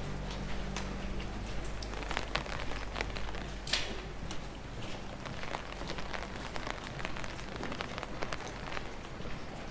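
Rain falling, with many drops ticking irregularly close to the microphone and a slightly louder crackle a little under four seconds in, over a steady low rumble.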